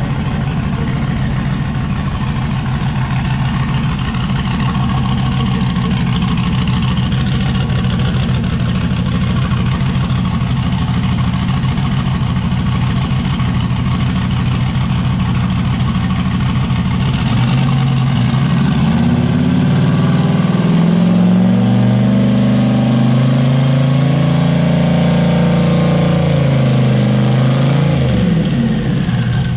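Turbocharged LS V8 in an S10 pickup idling, then revved up about 18 seconds in and held at a higher RPM for several seconds before dropping back to idle near the end.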